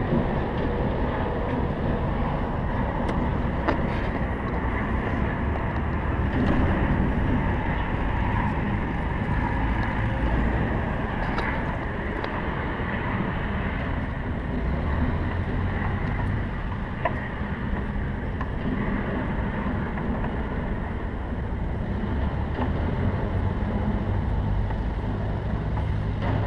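Steady low rumble of background engine or machinery noise, with a few faint clicks.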